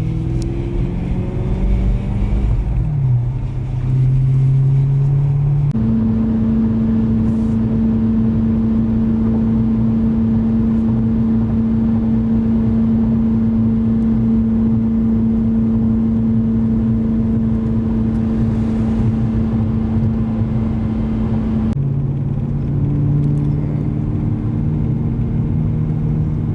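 BMW E90 M3's S65 V8 engine running under way on a test drive after a fresh rod bearing replacement. Its pitch shifts up and down in the first few seconds, holds one steady note for most of the time, then drops to a lower steady note near the end.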